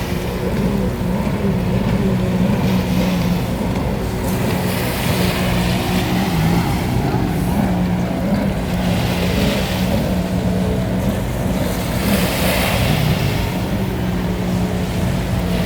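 Motorboat engine running at a steady low drone, with swells of hiss every few seconds.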